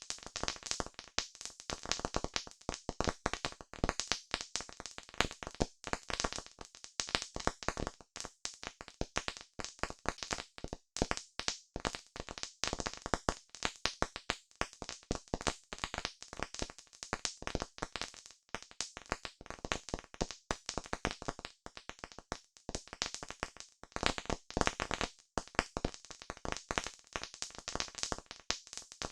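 Campfire crackling: burning wood giving off a dense, irregular run of sharp pops and snaps, several a second.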